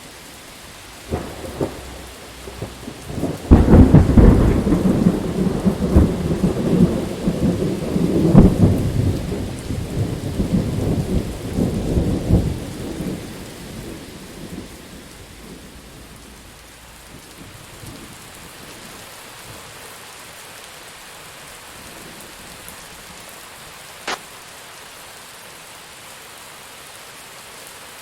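Steady rain falling through a thunderstorm. A couple of small cracks come about a second in, then a loud thunderclap about three and a half seconds in that rolls and crackles for some ten seconds before fading away. After that only the steady rain is left, with a single sharp tick near the end.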